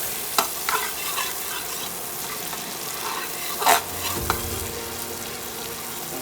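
Onion sizzling in melted butter in a pan while it is stirred, with a few sharp clicks of the utensil against the pan.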